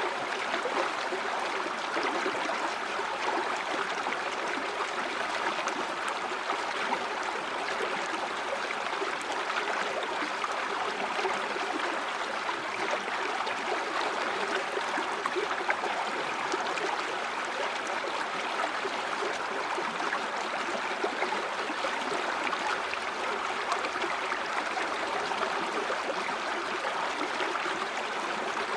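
River water flowing and gurgling over stones, a steady even rush with small splashing flickers.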